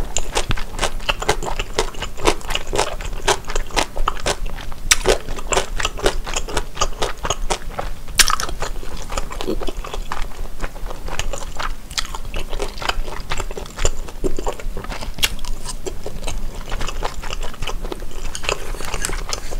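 A person chewing food close to the microphone: a dense, irregular run of small mouth clicks.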